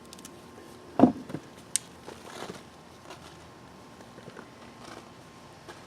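Hands rummaging through soil and handling potatoes, with scattered rustles and a knock about a second in, followed by a sharp click.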